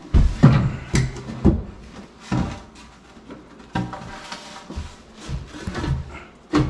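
Irregular knocks and clunks from hands-on work, several in quick succession in the first second and a half, then more spaced ones.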